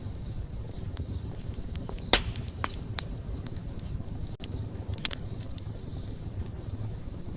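Wood campfire crackling: sharp pops and snaps of burning wood over a steady low rush of flame. The loudest pop comes about two seconds in, with smaller ones around three and five seconds.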